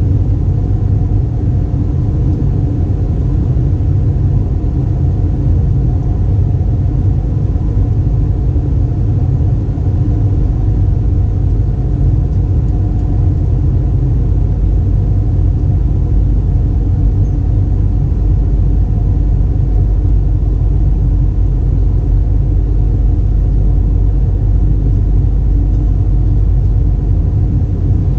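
Steady cabin noise inside an Airbus A320: a loud, even low rumble of engines and airflow, with faint steady hums above it.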